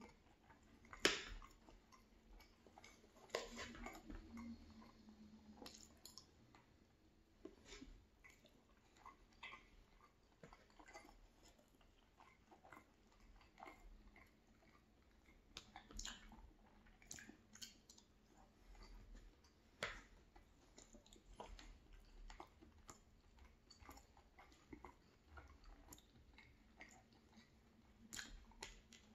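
Faint, close-miked chewing of a mouthful of fried potatoes, with soft wet mouth sounds and a scattering of sharp clicks, the loudest about a second in.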